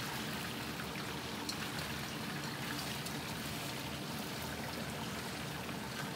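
Flour-coated lobster pieces sizzling as they fry in oil in a wok, a steady hiss with a few small pops.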